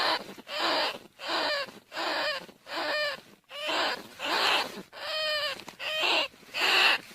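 Rat squeaks played as a lure call for rice-field rats and bandicoot rats: short, pitched squeals repeating about twice a second, each arching up and down in pitch.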